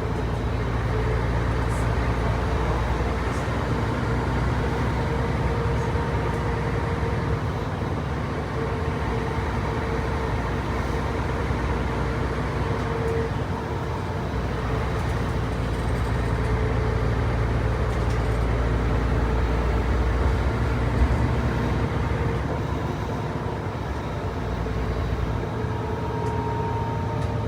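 Ex-State Transit bus 3532's 11.967-litre six-cylinder turbocharged Mercedes-Benz OM 447 HLA diesel engine and drivetrain, heard aboard as a steady rumble and drone while the bus is under way. The engine note swells and eases back twice, with a single light knock near the end.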